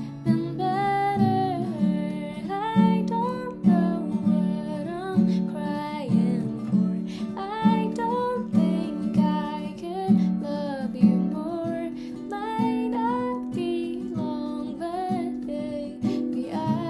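Acoustic guitar strummed and picked, with a voice singing the melody over it.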